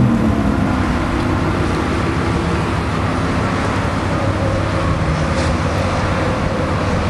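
Lamborghini Huracán's V10 engine running at a steady, even drone, with road or traffic noise underneath.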